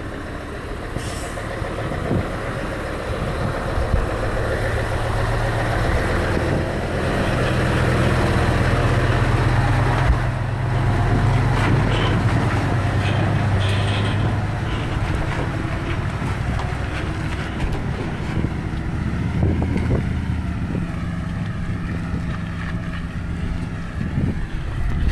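Isuzu Giga 6x4 dump truck's diesel engine pulling under load up a steep hill, growing louder toward the middle and then easing slightly.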